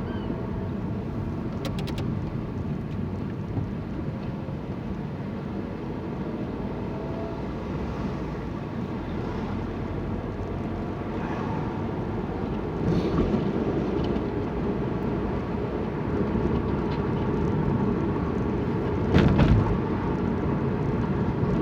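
Car driving, heard from inside the cabin: steady engine and road noise, growing a little louder about two-thirds of the way through, with a brief louder surge near the end.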